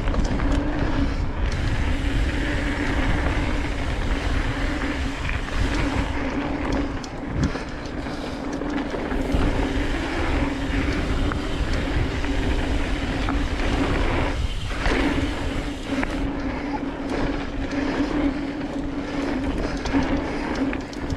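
Mountain bike rolling fast over dirt singletrack: a steady hum and rattle from the tyres and bike, with wind rumble on the microphone. The hum drops out briefly about two-thirds of the way through.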